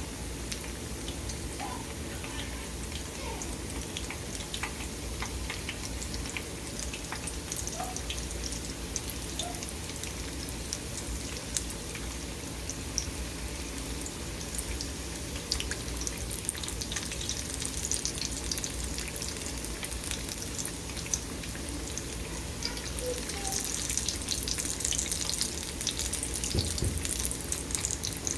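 Red-lentil and onion fritters (peyaju) deep-frying in a karahi of hot oil: a steady sizzle dotted with crackles and pops, which grows louder and busier near the end.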